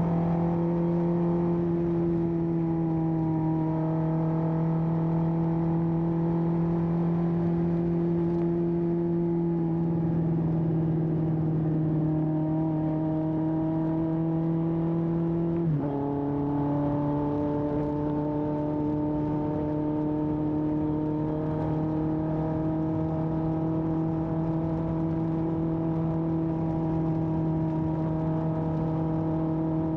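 1981 Honda CB750F's air-cooled inline-four, breathing through a period Yoshimura muffler, running at a steady cruise with its pitch sagging slowly. About halfway through a quick gear change drops the pitch, and it settles into a steady cruise again.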